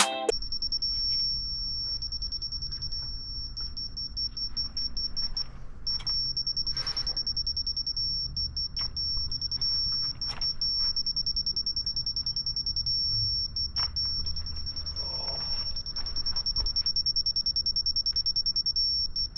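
High-pitched insect trill, a single steady tone pulsing very fast, that breaks off briefly about six seconds in and again near the end, over a low rumble.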